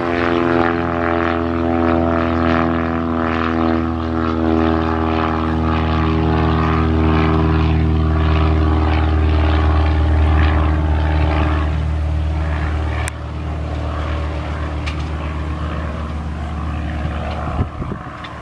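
Single-engine propeller plane, a GippsAero GA8 Airvan with its six-cylinder piston engine, running loud with a steady propeller drone. The sound drops off about two-thirds of the way through, leaving a lower hum.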